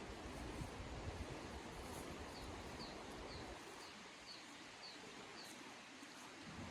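A small bird calling in a quick series of short, high notes that fall in pitch, about two a second, over a faint low rumble of noise that eases about halfway through.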